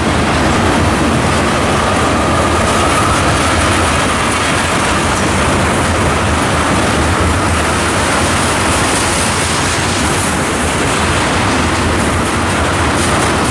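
Freight train of loaded tank cars rolling past close by: a steady loud rumble and clatter of steel wheels on the rails, with a faint high-pitched wheel whine running through it.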